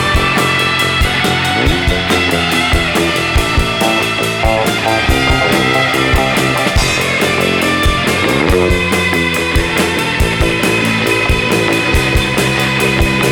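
Rock band playing an instrumental passage: guitar over bass, with a steady beat of kick drum and cymbals.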